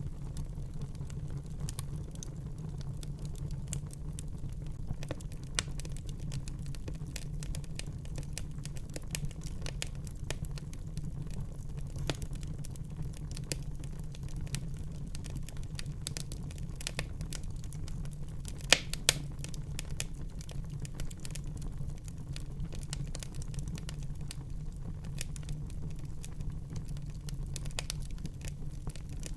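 Wood fire burning in a fireplace: a steady low rumble of flame with irregular crackles and snaps throughout, and two louder pops close together about two-thirds of the way through.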